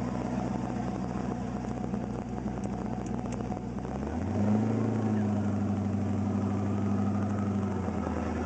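Twin-turbo LS1 V8 engine idling steadily; about four seconds in the revs rise a little and hold, a bit louder, then settle back toward idle near the end.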